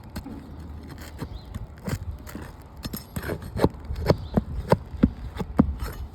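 A series of sharp knocks, faint at first and then louder and more regular about halfway through, at roughly two a second.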